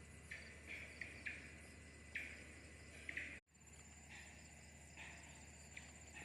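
Faint outdoor insects chirping in short calls at irregular spacing, over a low steady hum. The sound drops out completely for a moment about three and a half seconds in.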